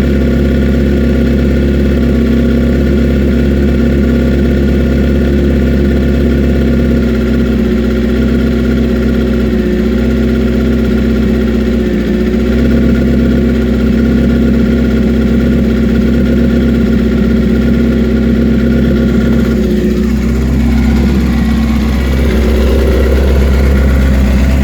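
Suzuki GSX-R750 inline-four motorcycle engine idling steadily as it warms up after a cold start.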